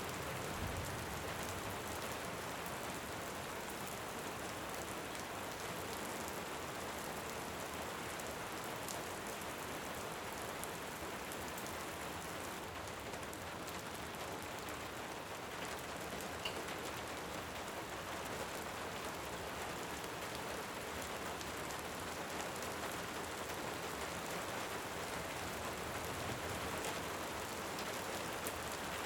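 Steady rain falling on a surface, with scattered small crackles and pops from a wood fire in a fireplace.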